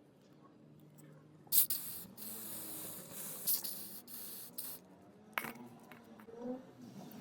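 A pressurised spray hissing in a run of short bursts over about three seconds, followed by a sharp click. It is used to clean sand out of a motorcycle chain.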